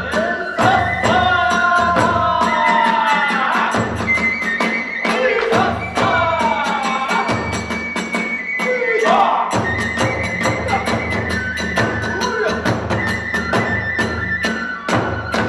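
Kagura ensemble music: fast, dense strikes of drum and hand cymbals under a high transverse-flute melody with held notes and sliding pitches.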